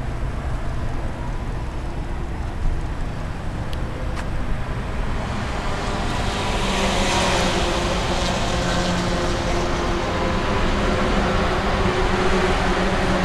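Low steady rumble, then from about halfway a car engine running close by grows louder and holds a steady hum with a hiss over it.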